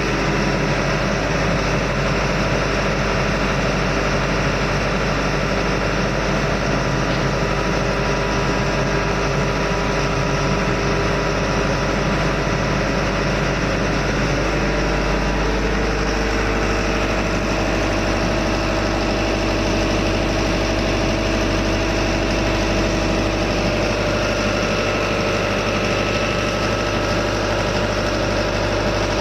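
Steady, loud engine-room machinery noise: diesel engines running constantly with a deep hum and several steady tones.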